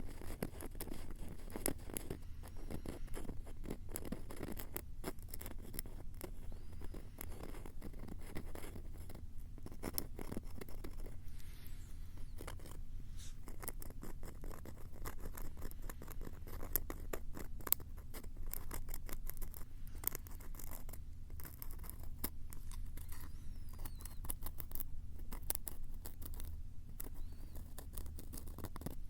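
Close-up ASMR scratching and crackling right at a Tascam recorder's microphones: a dense, irregular run of sharp clicks and scratches over a low rumble.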